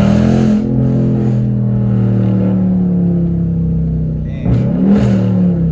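6.4-litre (392) Hemi V8 exhaust of a 2021 Dodge Charger Scat Pack Widebody under acceleration. It revs up as the sound begins, holds a steady deep drone, eases off, then surges again about four and a half seconds in with a rise and fall in pitch.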